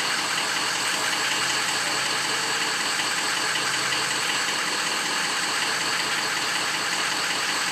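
Cold V8 diesel truck engine idling steadily. In a power balance test, cylinders 1, 2, 5 and 7 are not pulling their weight, while the engine computer compensates for the weak cylinders.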